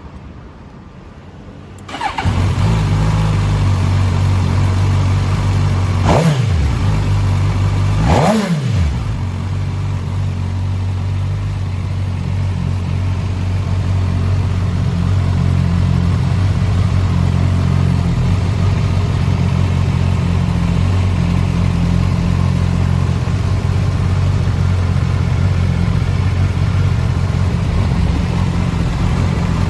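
Suzuki Katana motorcycle's inline-four engine starting about two seconds in, blipped twice in quick succession, rising and falling in pitch each time, then settling to a steady idle.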